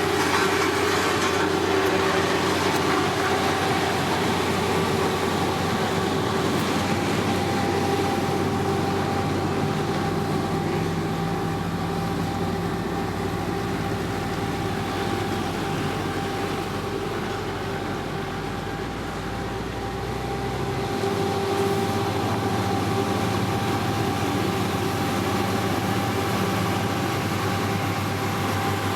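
Diesel engines of heavy road-building machines running steadily, with a steady whine over the engine note. The low engine note shifts about 21 seconds in.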